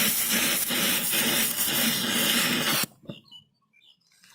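A loud, steady hiss with a low rumble under it, like a jet of gas or air, cutting off abruptly about three seconds in, followed by a few faint clicks.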